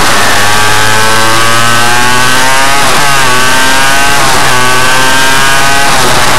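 Suzuki RM85 two-stroke minimotard engine accelerating through the gears. The pitch climbs steadily, drops and climbs again at gear changes about three and four and a half seconds in, then falls away near the end.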